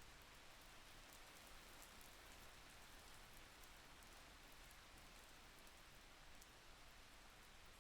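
Faint, steady rain hiss with a few light, scattered drop ticks.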